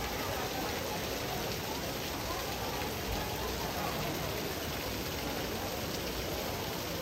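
Rain falling on the water of the Trevi Fountain's pool: a steady hiss of drops on water.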